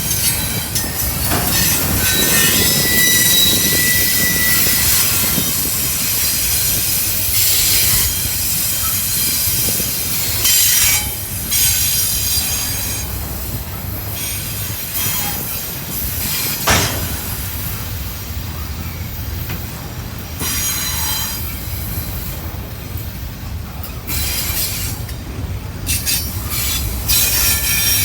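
Intermodal freight train cars rolling past, their steel wheels squealing in thin high tones that come and go, with a couple of sharp clanks.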